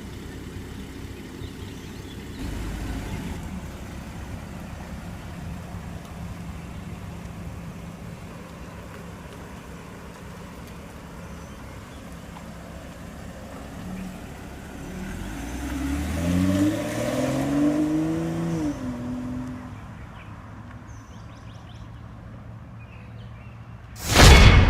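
BMW X3 xDrive35i's turbocharged inline-six idling steadily, with one throttle blip about fifteen seconds in that rises in pitch and settles back to idle a few seconds later. A sudden loud burst of other sound comes in at the very end.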